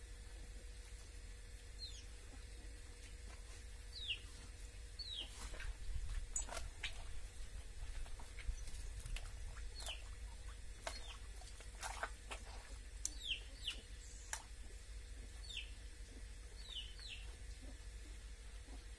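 Birds calling with short, high, downward-sliding chirps, repeated every second or two, over a faint steady low rumble. Scattered sharp clicks and rustles come mostly in the middle.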